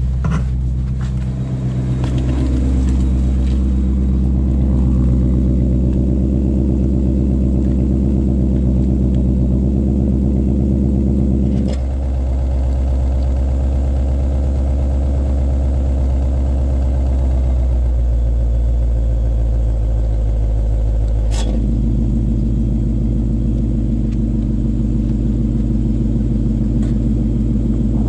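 2016 Ford Mustang GT's 5.0 V8 running steadily at idle through an aftermarket valved exhaust, a deep even rumble. About twelve seconds in the upper part of the sound drops away after a click, and it comes back with another click near twenty-one seconds.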